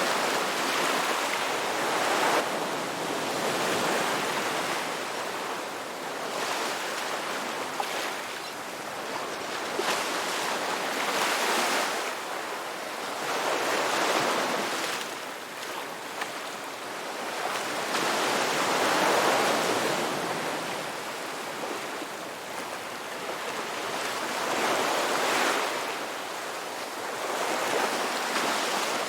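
Ocean waves breaking and washing ashore: a steady surf hiss that swells and fades again every few seconds.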